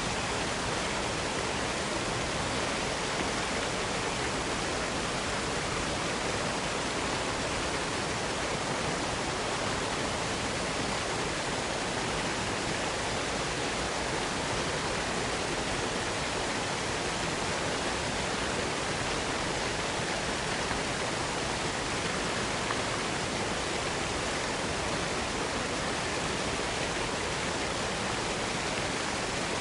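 Waterfall falling steadily into a small box canyon: an even, unbroken rushing noise with no change in level.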